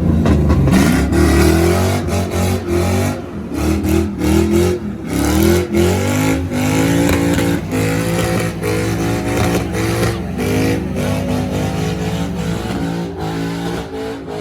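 A car or truck engine revving hard again and again for a burnout, its pitch climbing and dropping in quick surges, settling into steadier running near the end.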